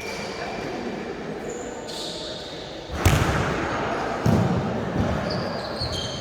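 Volleyball struck hard once, about three seconds in, followed by a few dull thuds, with short high sneaker squeaks on the court floor and chatter echoing in a large sports hall.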